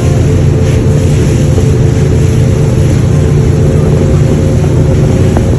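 Tour boat's motor running steadily at speed, a loud even drone with a deep hum, with some wind hiss.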